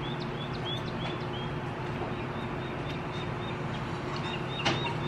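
A small bird repeating short high chirps, about three a second, over a low steady hum, with one sharp click near the end.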